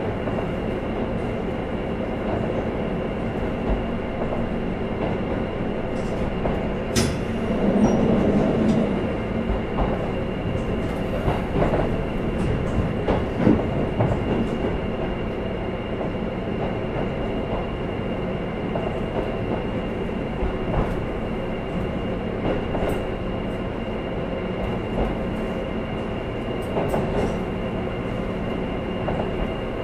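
Onboard running sound of a KiHa 11 diesel railcar: a steady rumble of engine and wheels on the rails. Scattered sharp clicks come through at irregular intervals.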